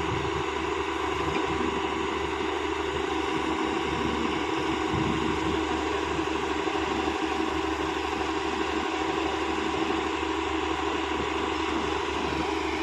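Excavator's diesel engine running at a steady, even speed.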